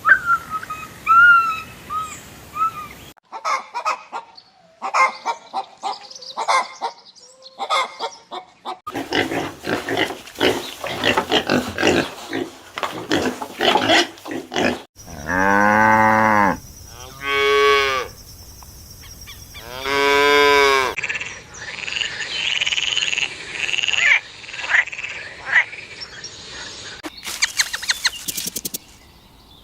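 A run of different animal sounds cut one after another. In the middle, a cow moos three times in long, drawn-out calls, with shorter chirping and clicking animal sounds before and after.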